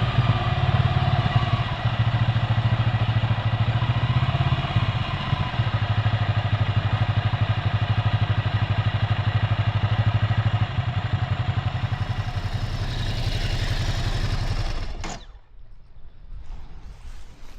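Ducati Scrambler Full Throttle's air-cooled L-twin running steadily at low revs through its Termignoni exhaust, with an even pulsing beat. It stops abruptly about fifteen seconds in, leaving only faint noise.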